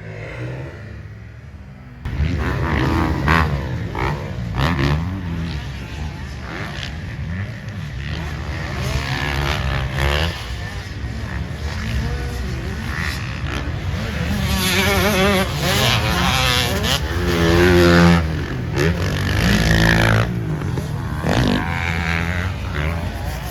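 Several motocross dirt bike engines racing on a track, revving hard with pitch rising and falling as they accelerate, shift and back off, the loudest pass about three quarters of the way through. The engine sound comes in abruptly about two seconds in.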